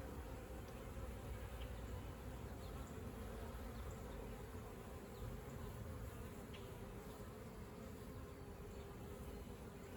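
Honeybees buzzing in a steady, continuous hum.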